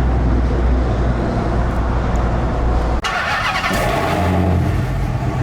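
A car engine running steadily with a deep drone. About three seconds in the sound cuts abruptly to a rougher, noisier burst of engine and air noise, then settles back into a steady engine drone.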